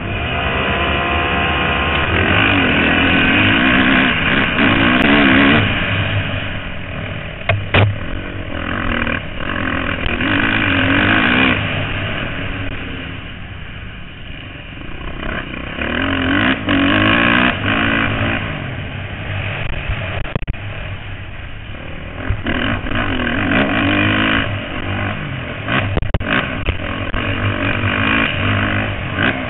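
Motocross dirt bike engines racing, rising in pitch at the start and then swelling and falling repeatedly as the throttles open and close.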